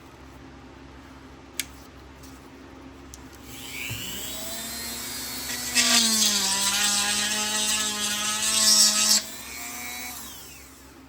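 Dremel rotary tool spinning up with a rising whine, then drilling for about three seconds with a loud cutting noise as its pitch sags under load. It winds down again near the end. A small click comes before it starts.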